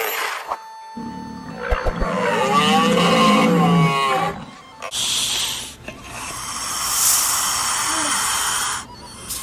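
Animal calls: a loud pitched call that wavers up and down in pitch for about two seconds, then a long, rough, noisy call lasting nearly four seconds.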